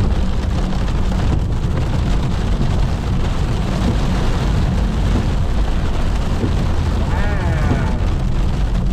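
Inside a Pontiac Firebird's cabin while driving: a steady engine and tyre rumble, with heavy rain hitting the car.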